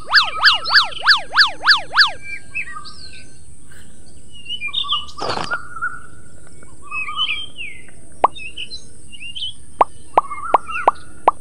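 Birds chirping, with a quick run of about seven sweeping up-and-down chirps in the first two seconds and then scattered short calls. From about eight seconds in, a series of short water-drop plops comes in, several a second, over a steady high hiss.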